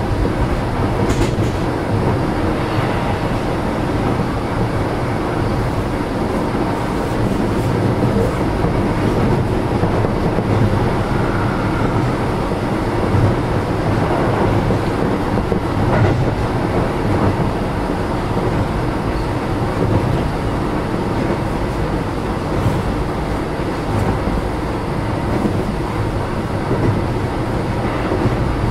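Interior running noise of a Keio 7000-series electric train car: a steady rumble of wheels on rail, with a few faint clicks.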